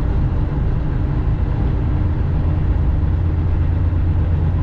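Steady low drone of a semi-truck's engine and road noise heard from inside the cab while driving.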